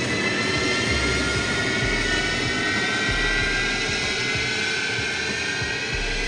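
Jet aircraft engines running loud and steady, a whine of several tones slowly rising in pitch over a broad roar.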